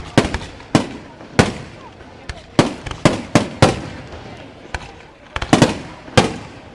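Firework display shells bursting in a rapid, irregular series of over a dozen sharp bangs, some in quick clusters, each followed by a short echo.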